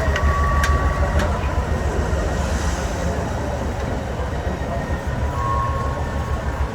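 Diesel engine of an 8x8 trial truck running with a deep, steady rumble, with two sharp clicks about a second in.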